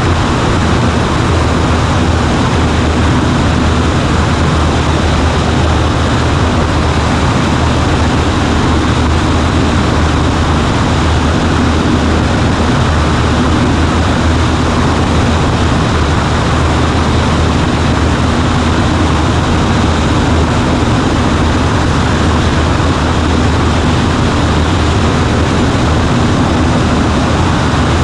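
Cessna 140A's piston engine and propeller running steadily at constant power, heard inside the small cockpit with wind and airframe noise over a low drone.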